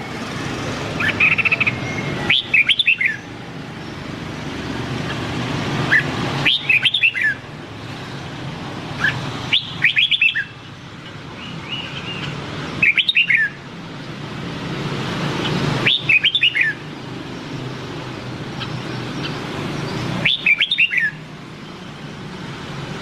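Red-whiskered bulbul singing: six short whistled phrases, one every three to four seconds, over a steady low background noise.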